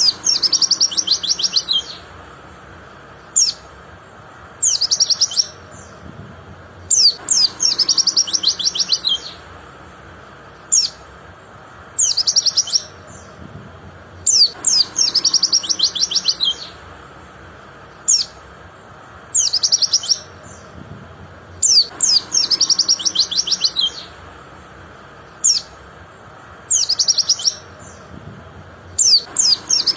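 White-eye (pleci) singing: a sharp high call followed by a fast, high trill about two seconds long, repeating about every seven seconds, with single short chirps in between.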